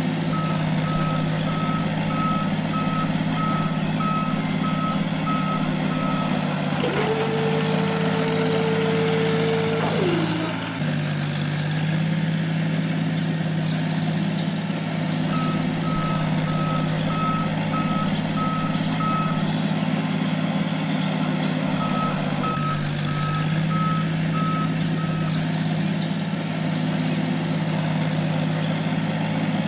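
Steady hum of a small vehicle's motor with a reversing alarm beeping about twice a second in runs of several seconds, three times. A higher whine starts about seven seconds in and cuts out about three seconds later, dropping in pitch as it stops.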